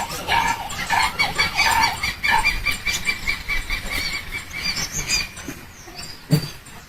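Animals squealing: a few short pitched cries, then a fast, even run of high-pitched squeaks for about three seconds.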